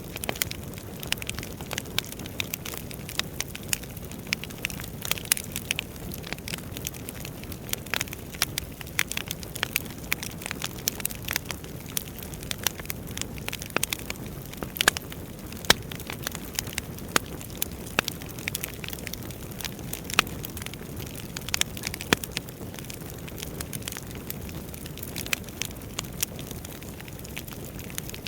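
Wood fire burning in a fireplace: a steady low rumble of flames with continual irregular crackling and sharp pops of burning logs.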